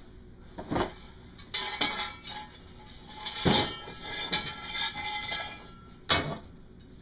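Knocks and clanks of metal muffler parts being handled, with a short ringing after some strikes: four distinct knocks, the loudest about three and a half and six seconds in.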